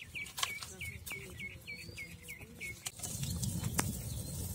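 A bird calls a fast run of repeated short notes, about three a second, for the first three seconds. Then a fire of dry palm fronds burns up with a low rushing sound and scattered crackles.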